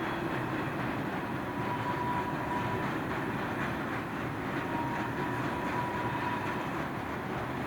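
Train rolling along the track: a steady rumble of wheels on rails, with a thin high whine near 1 kHz that comes in twice for about a second and a half each time.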